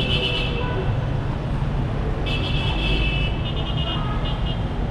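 Dense city traffic with engines running, and vehicle horns honking several times: one as it begins, a longer honk a little after two seconds in, then a few short toots.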